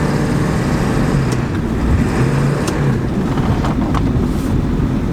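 Car engine running under a steady low rumble as the car skids through deep snow.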